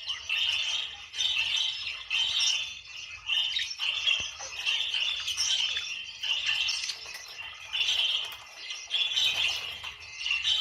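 Budgerigars chattering and warbling in a dense, scratchy stream, coming in short bouts about once a second.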